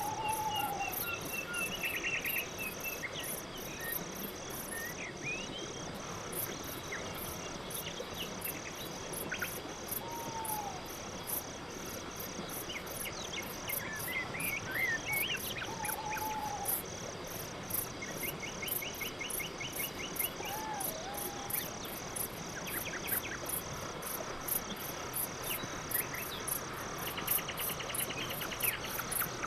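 Night forest ambience: crickets chirping in a steady, rhythmic high pulse, with occasional short whistled calls and brief trills over it every few seconds.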